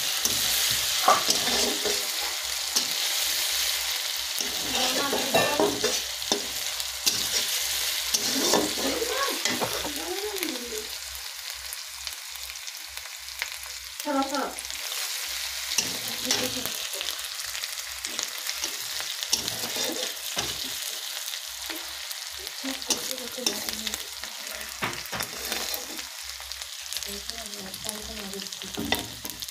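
Onion paste sizzling in hot oil in a kadai while a metal spatula stirs and scrapes it at intervals, the sauté (kosha) stage of the onion. The sizzle eases off somewhat after about ten seconds.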